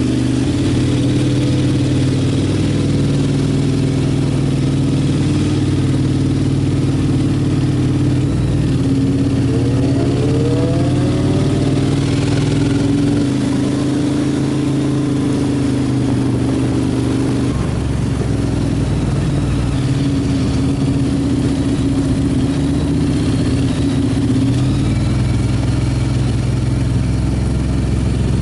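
Motorcycle engine while riding, heard from the bike. The engine note holds steady and shifts in steps with throttle and gear changes, with a rising rev about a third of the way through, over a constant rush of wind.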